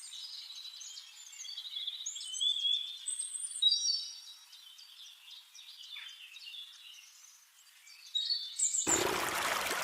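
Several songbirds chirping and warbling in quick, high-pitched phrases. Near the end it cuts suddenly to the steady rush of running water.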